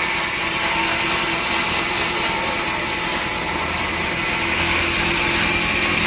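Sawmill saw cutting steadily through a teak log: continuous cutting noise with a steady high whine.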